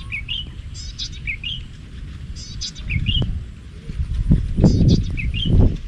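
Birds calling over and over: a short rising note with a higher chirp about once a second. Underneath, wind buffets the microphone in low rumbling gusts that grow stronger from about three seconds in.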